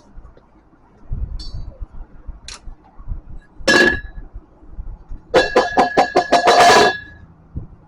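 Metal clinking and ringing: a few light ticks, one ringing strike about halfway through, then a quick run of about eight ringing metal-on-metal strikes near the end.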